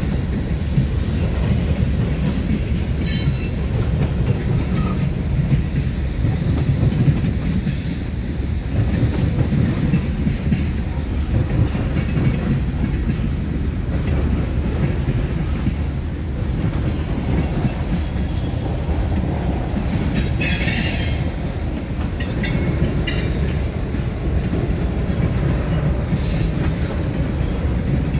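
Freight cars rolling past at steady speed: a continuous low rumble with the clatter of wheels over rail joints. A short high-pitched wheel screech comes about twenty seconds in, with fainter ones a few seconds before and after.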